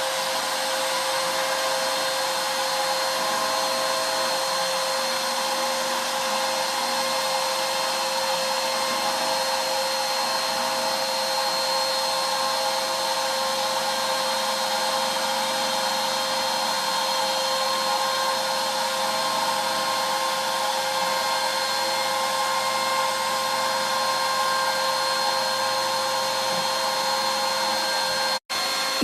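CNC router spindle running steadily as a ball-nose router bit carves a walnut relief: a constant whine of several steady tones over a noise of cutting. It drops out for an instant near the end.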